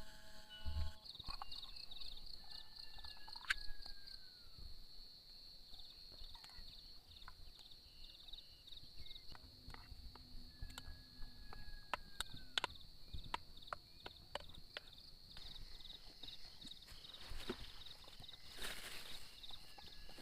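Forest insects, cricket-like, chirring steadily in a high pulsing drone, with scattered sharp clicks and knocks throughout and a few short falling whistled calls.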